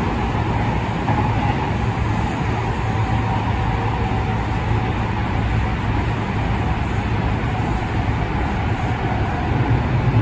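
Cabin running noise of a JR West 207 series electric commuter train in a tunnel: a steady low rumble of wheels on rail with a hum, getting a little louder near the end.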